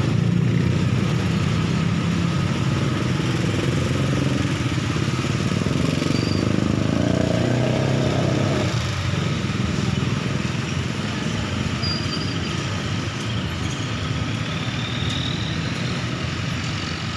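Diesel passenger train running with a steady low engine hum and track rumble, slowly fading as it moves away.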